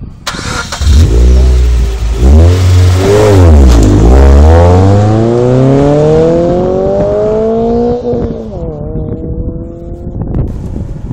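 Suzuki Swift Sport's 1.6-litre four-cylinder engine, fitted with a 4-2-1 manifold and a hand-made stainless steel muffler, accelerating hard. The revs climb, dip at upshifts about two and four seconds in, then make one long pull through the next gear. About eight seconds in the revs drop and it settles to a quieter, steadier drone.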